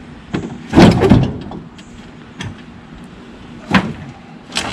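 A heavy refrigerator being shoved and rocked by hand, giving a loud scraping thud about a second in, a few lighter knocks, and another sharp knock near the end.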